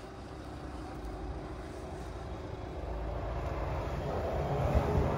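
327 V8 engine of a 1956 Ford F100 panel truck running, growing steadily louder as the truck draws nearer.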